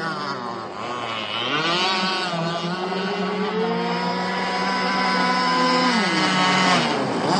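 Radio-controlled boat motors running on the water, more than one at once. One rises in pitch about a second and a half in, holds, then drops back near the end as it is throttled down.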